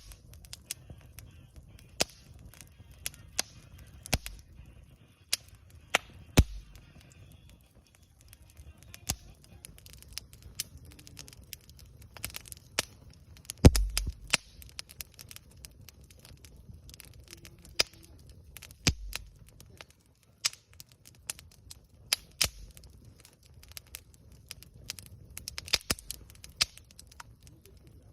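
Wood campfire crackling and popping: irregular sharp snaps from the burning wood, several a second at times, with the loudest pop and a low thud about halfway through.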